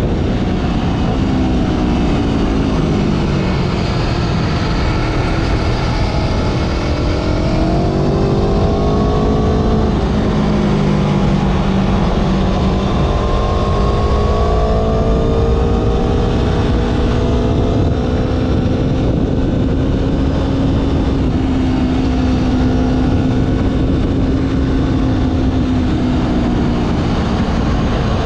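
Motorcycle engine running under way, its revs rising and easing off several times and then holding fairly steady, over a continuous rush of noise.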